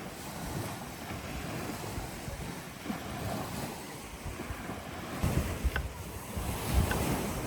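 Waves washing on a beach, with wind buffeting the microphone and gusting harder from about five seconds in. A few faint sharp clicks come through in the second half.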